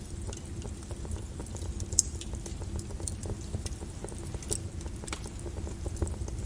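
Lava crackling and popping: scattered sharp clicks, one louder about two seconds in, over a steady low rumble.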